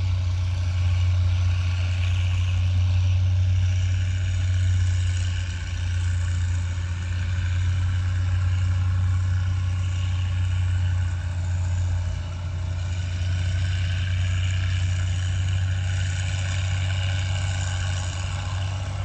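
Cars and a passenger van creeping past at low speed on a freshly graded dirt road, engines running with a steady low hum.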